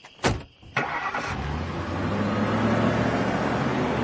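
A single heavy thump, then a car engine starting about a second in and running steadily.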